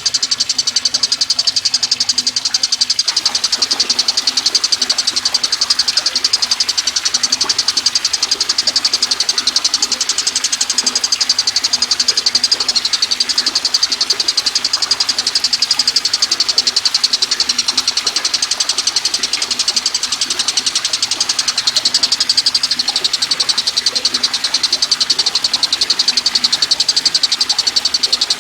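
Tengkek buto kingfisher call used as a training recording: a rapid, continuous, high-pitched trill of evenly repeated notes.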